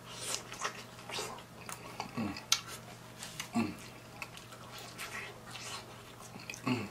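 Close-up chewing and crunching of breaded fried fish, with irregular wet smacks and crackles. It is broken by a few brief falling hums of enjoyment.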